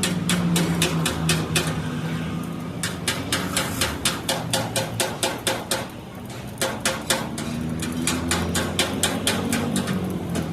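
Rapid hammer blows, several a second in runs with short pauses, over a steady low hum.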